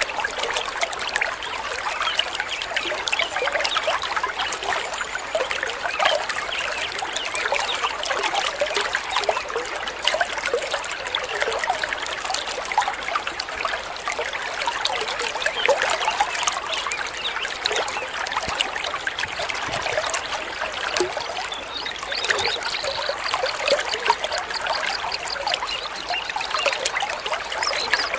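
Water trickling and babbling over stones in a small stream, a continuous bubbling splash.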